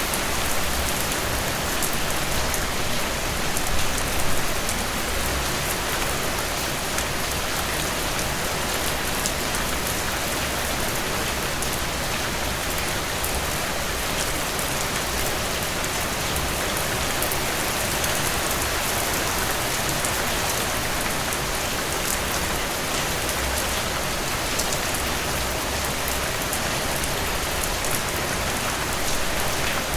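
Heavy rain pouring down on surfaces, a dense, steady hiss with fine drop detail and no thunder.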